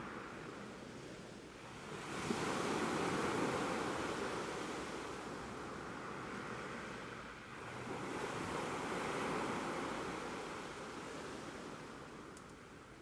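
Ocean waves washing in, one surge about two seconds in and another near eight seconds, each easing off, the sound fading toward the end.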